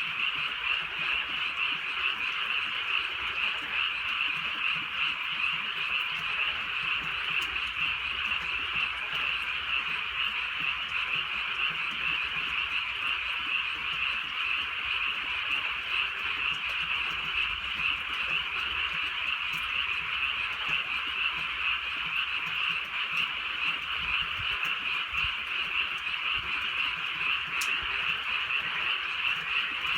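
A dense chorus of many frogs calling at once, a steady unbroken mass of croaking trills with no pauses.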